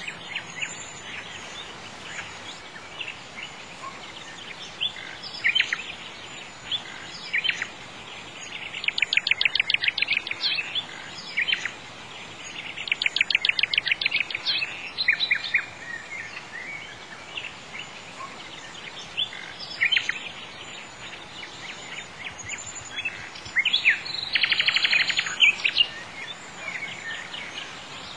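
Songbirds chirping and calling, with three rapid trills standing out, over a steady faint background hiss.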